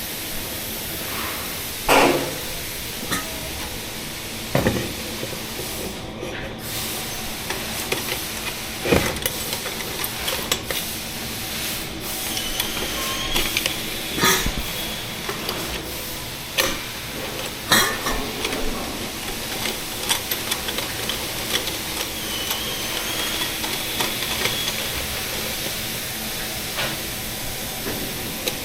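Steady hiss of background machinery, broken by several sharp knocks and clatters, the loudest about two seconds in and again near the middle.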